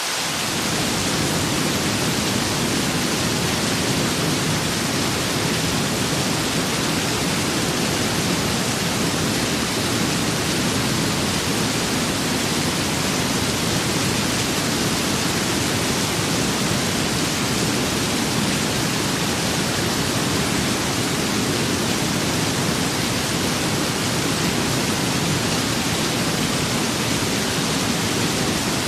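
Steady heavy rain with wind, a dense even hiss; a deeper rushing layer comes in about half a second in and holds.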